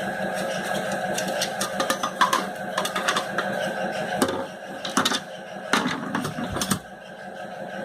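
A run of irregular sharp clicks and knocks, as of tools and metal parts being handled during work on a sewing-machine motor, over a steady hum. The clicks come in two clusters, one in the first half and one around five to six and a half seconds in.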